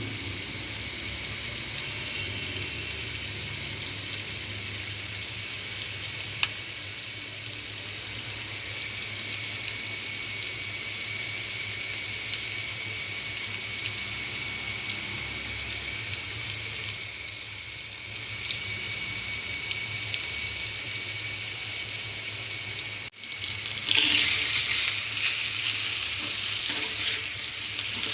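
A steady hiss with a faint low hum, then, after a sudden cut about 23 seconds in, louder sizzling of food frying in a pan.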